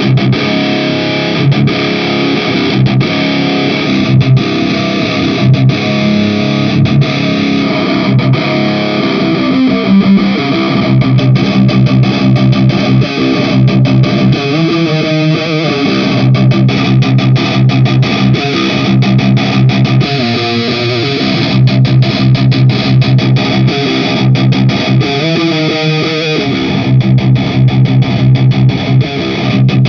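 Distorted electric guitar riff played on a loop through an Orange-style amp simulator (ML Sound Lab Amped Oracle) and the MIKKO2 speaker-cabinet IR loader, repeating about every six seconds while the plugin's cabinet and mic controls are adjusted.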